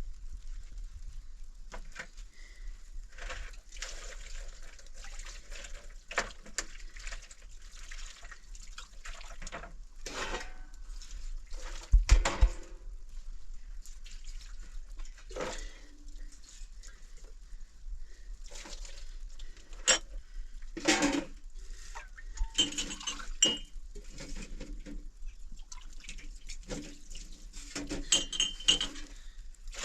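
Cookware and utensils being handled: scattered clinks and knocks with some scraping between them, the loudest knock about twelve seconds in.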